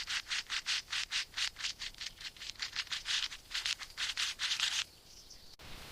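Rhythmic rubbing or scraping strokes, about four a second, stopping a little before the last second.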